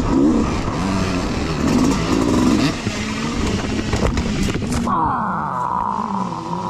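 Youth dirt bike engines revving up and down, with a couple of sharp knocks a little past the middle. Near the end a steady higher-pitched engine drone sets in.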